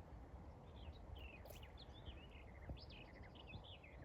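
Faint songbird twittering, a quick run of short high chirps starting about a second in, over a low, steady outdoor rumble.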